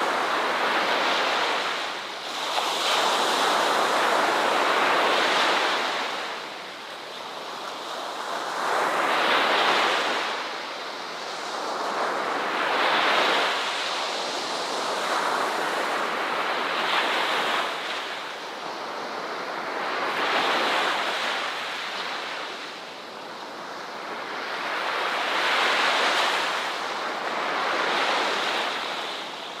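Ocean waves breaking and washing on a shore, the surf swelling and fading every few seconds.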